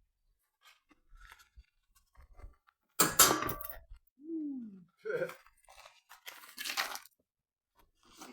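Sandpaper being torn and handled: several short crunching, tearing rustles, the loudest about three seconds in.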